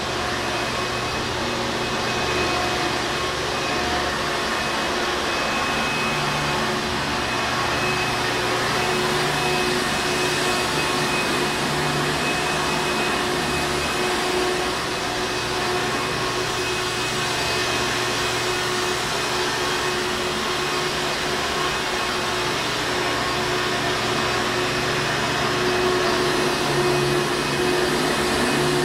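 Hoover Encore Supreme vacuum cleaner running steadily: a continuous motor whine over a dense airflow rush, with small swells in loudness.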